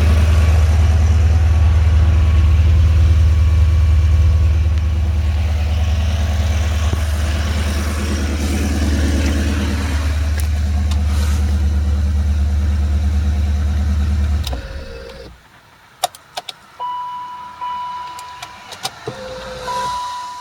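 BMW M5 E39's 4.9-litre V8 running steadily at idle, then shut off about two-thirds of the way in. After it dies come several sharp clicks and a few short electronic beeps.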